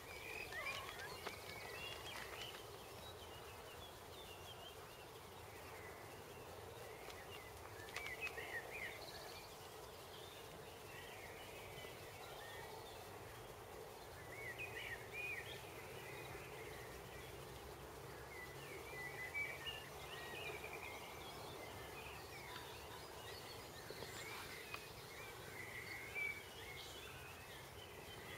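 Faint garden birdsong: short spells of quick chirping that come and go several times over a steady background hum of outdoor noise.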